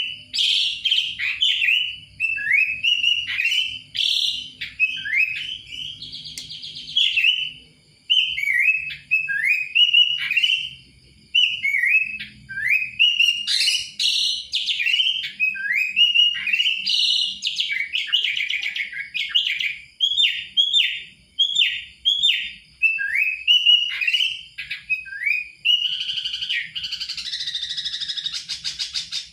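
Sooty-headed bulbul (kutilang) singing: a steady run of short, bright whistled notes, many dropping in pitch, with a harsh buzzy chatter near the end.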